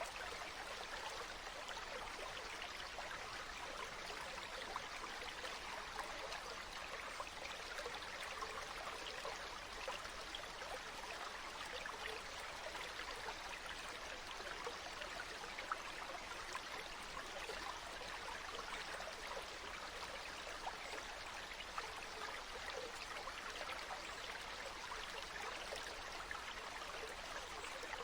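Flowing water, a steady rush with occasional small splashes.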